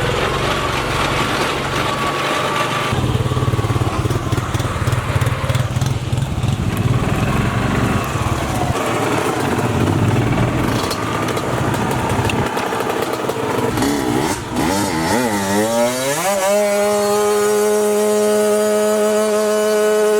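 Honda CR80 two-stroke dirt bike engine running roughly, then revving up for a few seconds about two-thirds of the way in and held at a steady high pitch.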